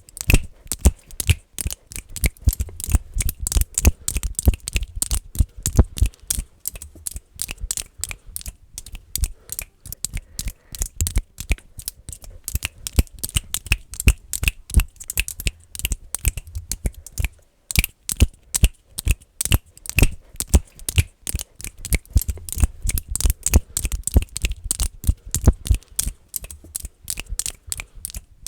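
Fingers making fast, aggressive clicking sounds close to the microphone: a rapid, irregular run of sharp clicks, several a second.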